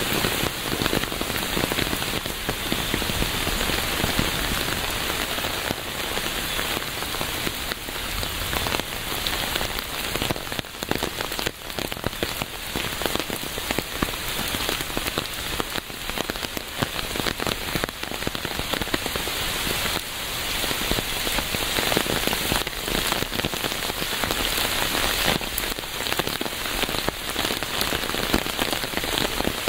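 Steady rain falling on a surface, a dense hiss with many small patters of drops.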